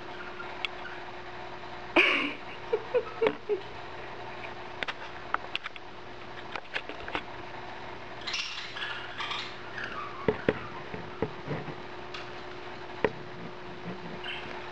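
Budgies moving about their cage: scattered small clicks and scratches with a few short calls, over a steady faint hum.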